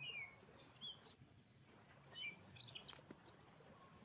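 Faint bird chirps: several short, quick calls scattered through, over a low steady background hum.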